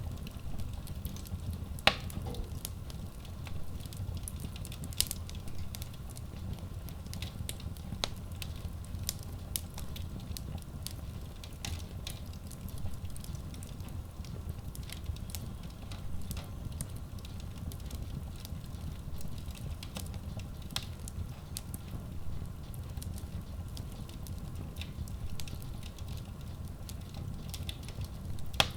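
Wood logs burning in a Kratki Koza K6 stove-fireplace: a steady low rumble of flame with scattered crackles and pops throughout, the sharpest pop about two seconds in and another near the end.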